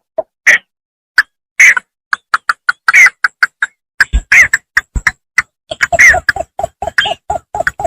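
A bittern giving rapid runs of short, clipped calls, about four to six a second, with brief pauses between runs. This is a recording of the kind played to lure birds.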